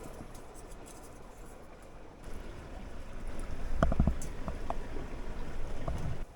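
Creek running hard outside the tent: a steady rush of water that grows louder about two seconds in, with a few brief short sounds around the middle.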